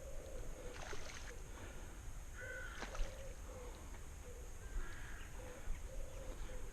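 Outdoor ambience with birds calling now and then, among them crow-like caws, over a low rumble of wind on the microphone. A couple of soft clicks sound about a second and three seconds in.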